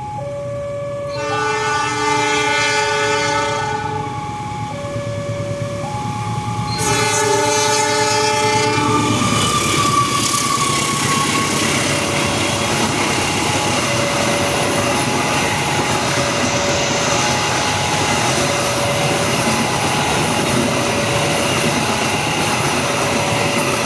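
Train horn blasts twice, the first about a second in for about three seconds and the second about seven seconds in, then the train passes with a steady rumble and wheel clatter. Underneath, a two-tone warning signal alternates about once a second, typical of a level-crossing alarm.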